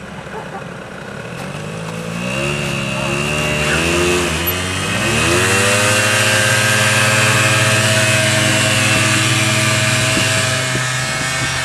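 Quad bike engine revving, its pitch rising and falling a few times, then climbing about five seconds in and holding at steady high revs.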